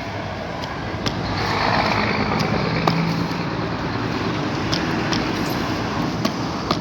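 A motor vehicle engine running nearby, swelling over the first couple of seconds and then slowly easing off, with a few sharp clicks.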